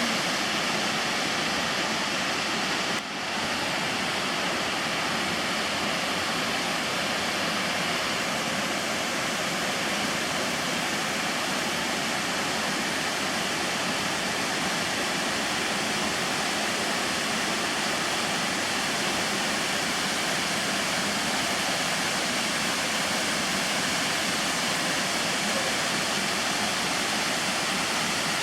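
Waterfall rushing: a steady, dense hiss of falling water, with a brief dip about three seconds in.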